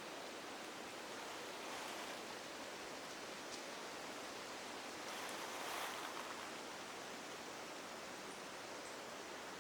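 Forest ambience: a steady, soft rushing noise that swells slightly twice, with a few faint high ticks near the end.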